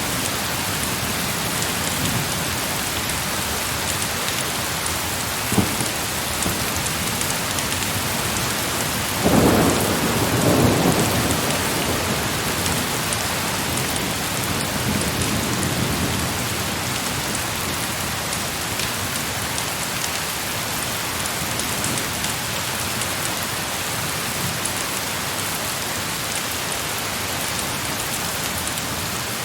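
Heavy rain falling steadily. About nine seconds in, a roll of thunder rumbles for several seconds and fades. A single short sharp tick comes a few seconds before it.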